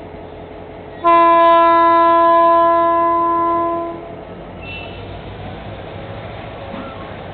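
Horn of a General Motors GT-22 diesel locomotive sounding one steady blast of about three seconds, starting about a second in. Around it, the train runs with a steady rumble.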